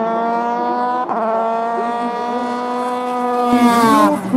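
Race car engine at full throttle climbing in revs, with a gear change about a second in, then the revs dropping sharply near the end as it comes off the throttle.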